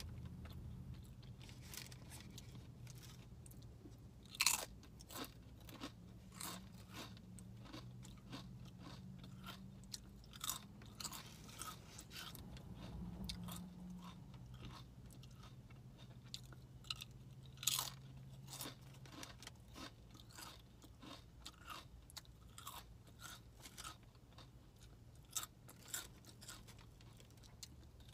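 Close-up chewing and crunching of SunChips and a sub sandwich, with many sharp irregular crunches over a steady low hum.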